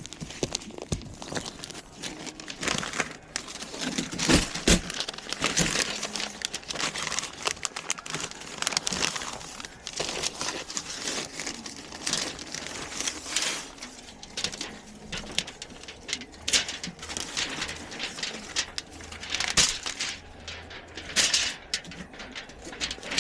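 Irregular rustling and crinkling with many light clicks and knocks, like material being handled.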